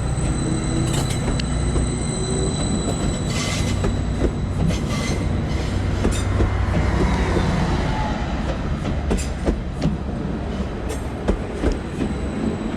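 A Class 755 diesel multiple unit moving along the track, its engine a steady low drone. Wheels click sharply over rail joints at irregular intervals, and there is a faint wheel squeal.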